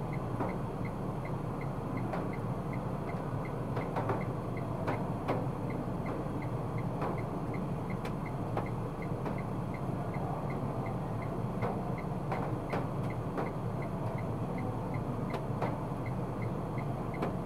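Steady low rumble of a car heard from inside the cabin, with the indicator relay ticking evenly about two to three times a second. Occasional louder clicks come in between.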